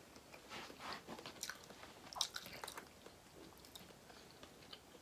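Faint chewing of seafood, with a few small crunches and clicks in the first three seconds.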